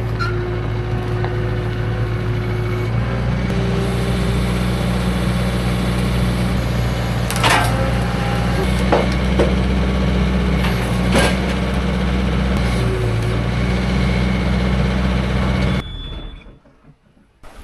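Engine of a manual sawmill running steadily under load as it cuts through a log, with a few sharp knocks along the way. The sound stops abruptly near the end.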